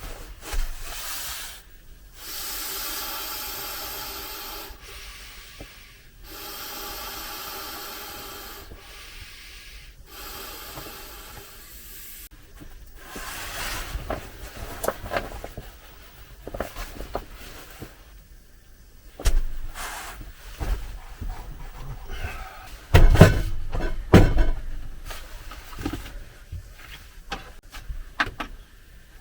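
Three long rasping strokes of two to three seconds each, then a run of clicks, rustles and knocks, with the loudest thumps about 19 and 23 seconds in.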